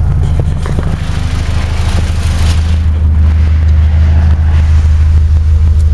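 Mitsubishi 4G15 1.5-litre four-cylinder engine idling steadily, heard from close by. A rustling noise and a few light clicks come between about a second and three seconds in.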